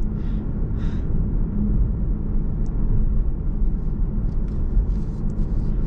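A car driving along a road, heard from inside the cabin: a steady low rumble of engine and tyre noise with a faint even hum.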